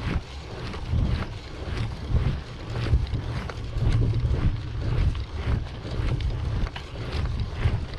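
Wind buffeting the microphone of a camera carried on a moving bicycle, a heavy uneven rumble, with irregular small clicks and rattles from the bike over the road.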